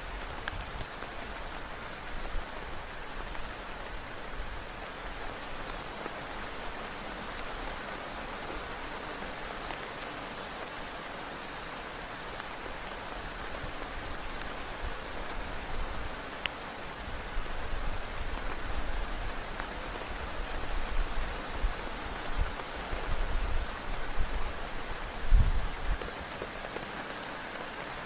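Heavy rain falling steadily on a tent. Bouts of low rumbling build through the second half and are loudest near the end.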